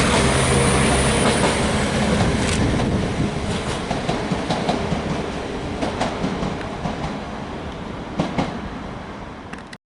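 Train running past on the line, its low steady drone fading about a second and a half in. Wheels then clack over rail joints at uneven intervals as it draws away and the rumble dies down, before the sound cuts off abruptly near the end.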